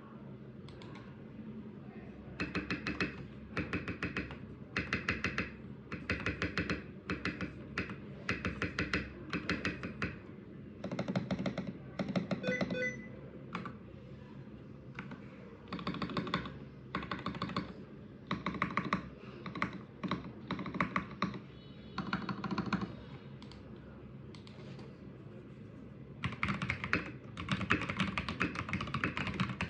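Mechanical keyboard with Cherry MX Black linear switches (2014 retooled) being typed on in short bursts of keystrokes with brief pauses, then faster continuous typing near the end.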